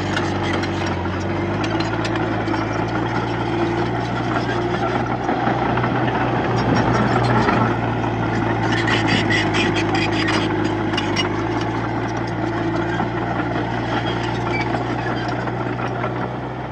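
Komatsu D31P crawler bulldozer's diesel engine running steadily, with spells of metallic clanking and squealing from the steel tracks as it works.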